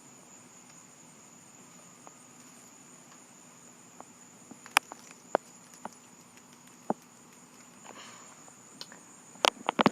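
Crickets trilling steadily in one constant high tone, with a few sharp clicks scattered through the middle and a louder cluster of clicks and knocks near the end.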